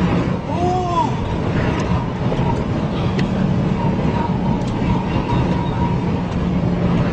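Steady road and engine noise of a moving vehicle, as picked up by a dashcam, with faint steady hums throughout. About half a second in, a brief pitched tone rises and falls.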